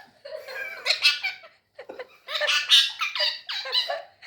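Pet parrot squawking and chattering in a run of short, high calls, pausing briefly about halfway through before a second run.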